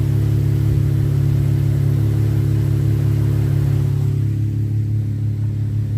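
Car engine idling through MagnaFlow Magnapack mufflers, a steady low drone that holds even, without revving. The owner finds it really quiet at idle.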